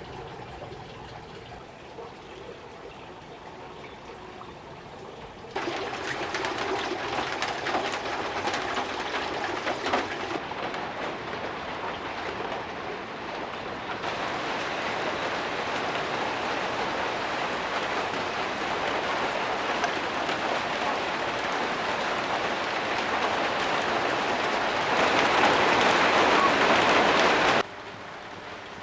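Food frying in hot oil, a steady crackling sizzle that gets louder in steps at several cuts and stops suddenly near the end.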